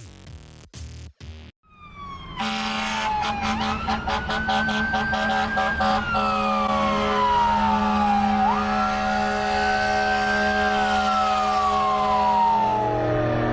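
Fire engine siren in a slow wail, its pitch climbing, holding and falling twice, over a steady engine hum. A short choppy stutter comes before it in the first two seconds.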